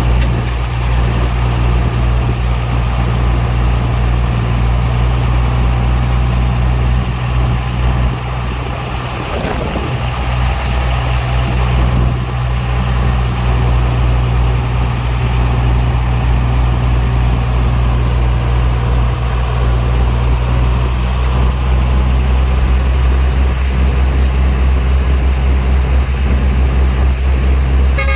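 Diesel engine of heavy earthmoving equipment running steadily with a deep, even hum, easing off briefly about eight to ten seconds in before settling back.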